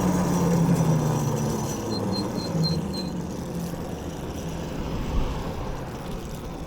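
Gas minibike engine running, its note easing down and fading over the first two seconds, then a quieter steady hum of the ride. A quick run of five short high chirps comes about two seconds in.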